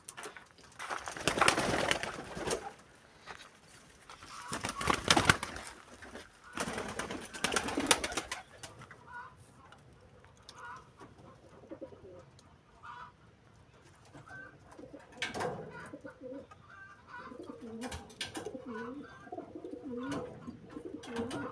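Pigeons cooing in low, wavering phrases, joined by short faint higher calls. Three loud rushing noise bursts come in the first eight seconds.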